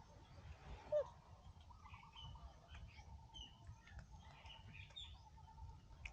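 Faint scattered bird chirps, with one brief, louder call sliding down in pitch about a second in, over a low rumble and a faint steady hum.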